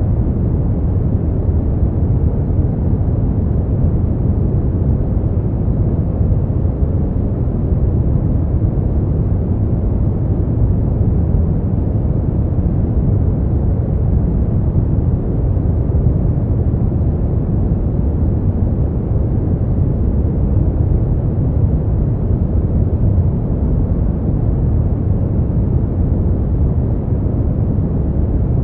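Steady, unchanging noise made for sleep or study, weighted heavily to the low end: a deep, even rush with little treble and no individual sounds in it.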